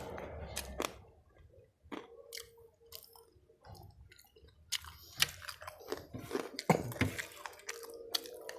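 Close-up mouth sounds of a person chewing and crunching crispy fried chicken with rice: wet chewing and irregular crisp crackles, sparse at first and then denser and louder about halfway through.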